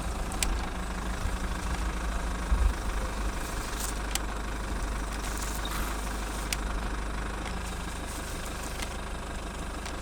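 A truck's diesel engine idling steadily, with a low rumble and a few faint clicks.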